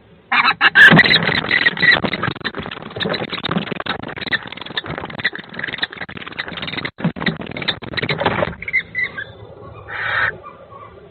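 A kestrel and a barn owl fighting inside a nest box: a loud, dense scuffle of flapping wings and thrashing that starts suddenly and runs for about eight seconds. After it stops, a couple of short bird calls follow near the end.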